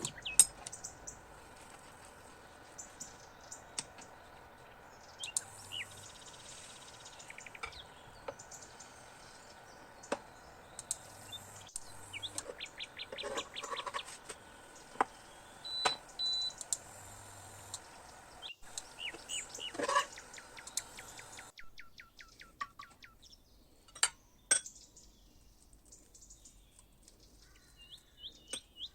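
Small birds chirping in quick repeated series, with scattered sharp clicks and knocks over a faint steady background hiss that cuts off suddenly partway through.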